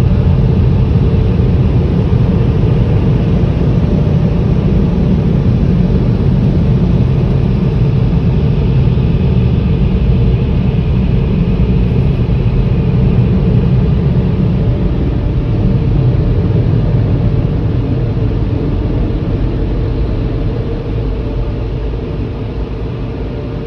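Tunnel car wash air dryers blasting air over the car: a loud, steady rush of air, easing off in the last few seconds.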